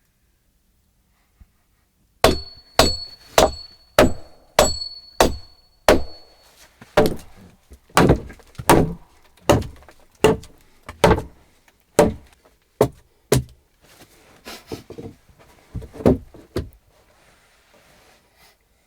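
Hammer blows on wood, about twenty steady strokes a little more than half a second apart, as when driving nails. The first several ring with a high metallic tone, and the later blows sound duller.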